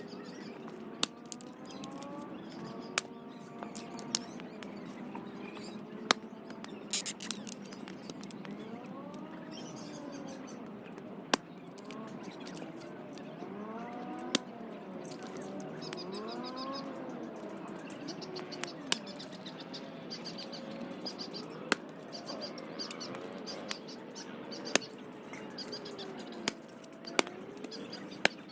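Wood campfire crackling, with irregular sharp pops every second or two. Birds chirp and call in the background.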